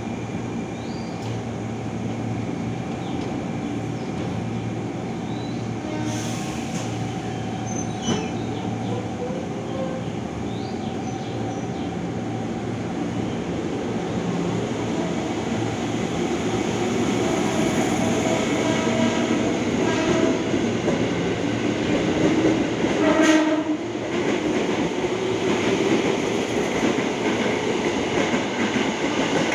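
KRL Commuter Line electric train running on the rails through the station, its rumble growing louder in the second half. A sharp knock comes about two-thirds of the way through.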